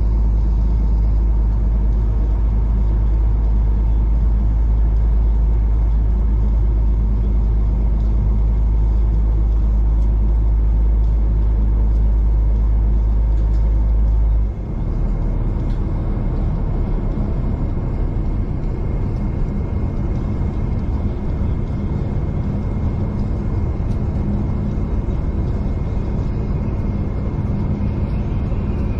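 V/Line diesel passenger train running along the line, heard from inside the carriage: a steady deep rumble with engine and running tones. The deepest part of the rumble drops abruptly about halfway through.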